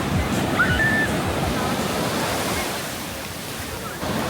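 Ocean surf washing onto the beach: a steady rushing noise that eases off about three seconds in and swells again near the end.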